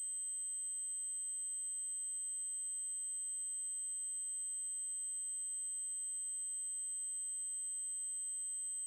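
Steady 8192 Hz triangle-wave tone, a single very high-pitched electronic pitch held without change, with faint overtones above it.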